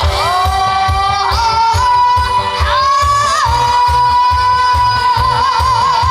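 A boy's high voice singing a trot song live over a backing track with a steady bass beat, holding long notes that end in a wavering vibrato near the end.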